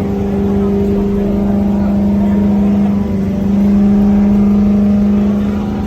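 A car engine held at steady high revs, getting a little louder about halfway through.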